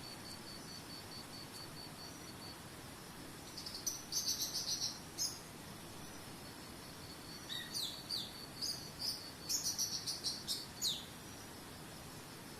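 Songbirds singing in two bursts of quick, high chirps and falling whistles, the second burst longer, over the steady rush of a waterfall. A fast, high, pulsing trill like an insect's sounds for the first couple of seconds.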